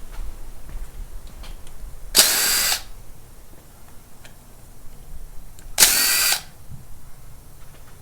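Two short bursts of a hand-held power tool, each about half a second long and about three and a half seconds apart, run while tearing down an engine.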